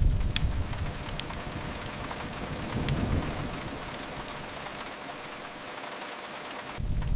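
Steady rain hiss mixed with a few sharp crackles from a wood fire. A low rumble fades early, swells again around three seconds in and comes back strongly near the end.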